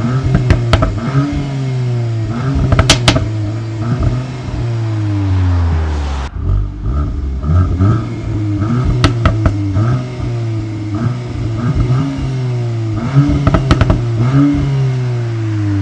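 VW Golf 8 R's 2.0-litre turbocharged four-cylinder engine and exhaust being revved again and again, the pitch climbing and falling back each time, with sharp cracks among the revs.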